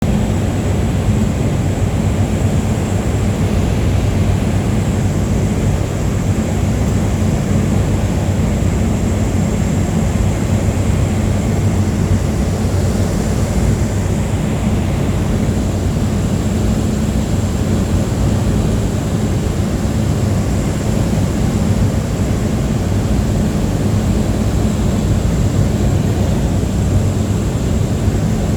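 Light aircraft's piston engine and propeller heard from inside the cabin in flight: a loud, steady drone with an even low hum and a thin high whine above it.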